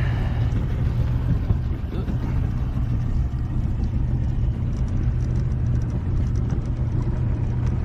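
Bass boat's outboard motor running steadily, a continuous low rumble.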